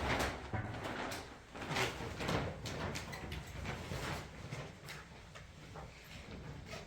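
Irregular clicks and knocks, like metal parts or objects being handled, louder at first and fading toward the end.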